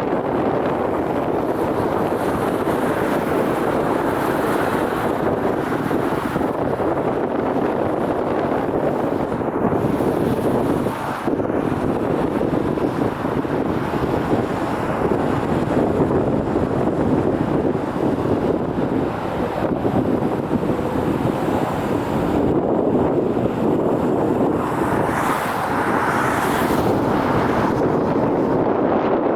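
Wind buffeting the microphone: a steady rushing noise that turns brighter and hissier for a couple of seconds near the end.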